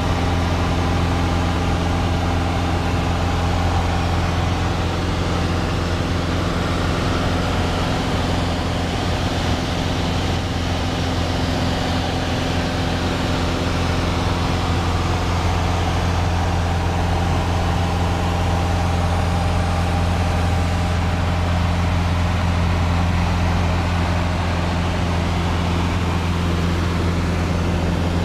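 Steady drone of a light aircraft's engine and propeller in cruise, heard inside the cabin, with a deep hum and a few fixed higher tones over it.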